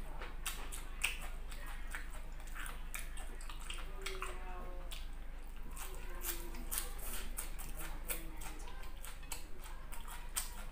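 Close-miked chewing and lip smacking of a person eating with the mouth open: many short wet clicks and smacks, several a second.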